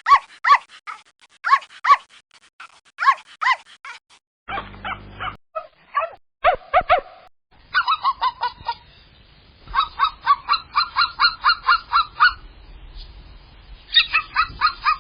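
Small dog yapping in short, high-pitched yaps, each dropping slightly in pitch, spread over several separate recordings. One stretch is a rapid run of about six yaps a second.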